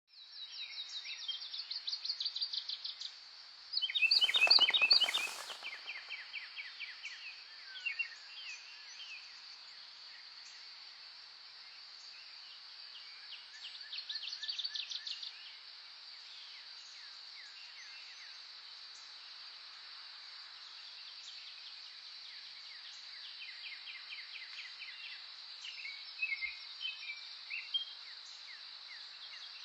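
Several wild birds singing, with rapid repeated trills and chirps coming and going, over a steady high insect drone. A loud burst about four seconds in, lasting a second or so, stands out above the rest.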